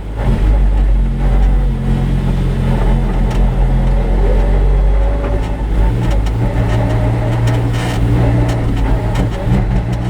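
Lamborghini Huracán race car's V10 engine running at fairly low, steady revs, its note stepping up or down a few times.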